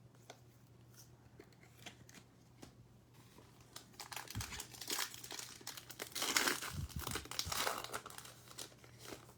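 Foil wrapper of a Select football card pack being torn open and crinkled. It is faint at first, then the crackling gets denser and louder from about four seconds in.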